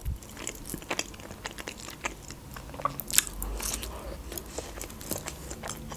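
A person chewing and biting food close to the microphone, a mouthful of fried egg and sausage, heard as many short irregular clicks and crunches.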